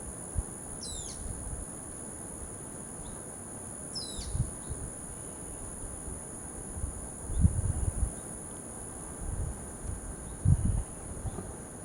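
Steady, high-pitched insect drone, two tones held without a break. A bird gives two short sweeping calls, about a second and about four seconds in, and low rumbles of handling noise on the microphone come in several times in the second half.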